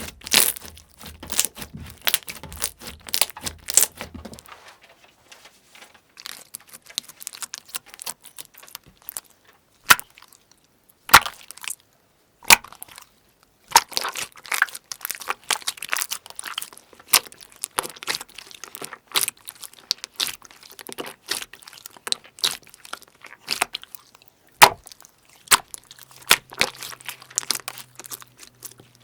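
Slime being squeezed and worked by hand, giving a dense, irregular run of small sticky pops and crackles, with a few louder snaps.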